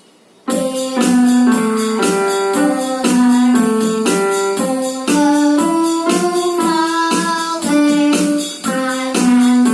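Electronic keyboard on a piano voice playing a simple single-line melody, starting about half a second in, with notes struck two to three a second.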